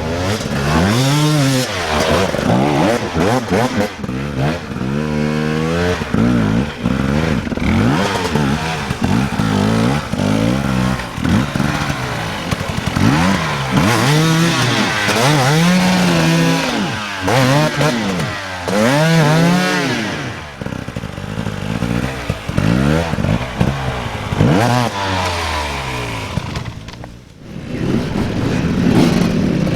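Dirt bike engines revving hard in repeated bursts, the pitch climbing and falling again every second or two as the throttle is opened and shut, with a short lull near the end.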